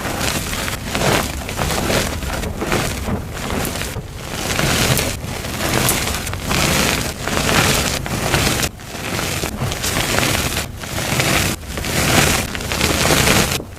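Dyed gym chalk being crushed and crumbled, a dense crunching crackle that comes in repeated crushes with short breaks between them.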